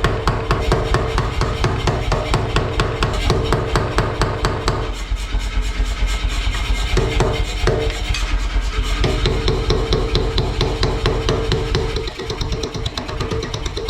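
Rapid, evenly spaced hammer blows on hot iron, about five a second, with a steady hum underneath.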